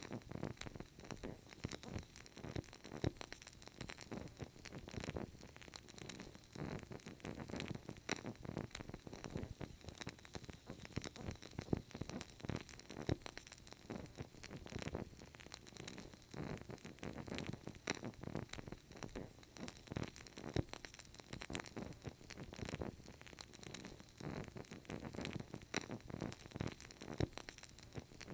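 Burning candle crackling faintly: many small, irregular ticks and pops over a soft low rustle of the flame.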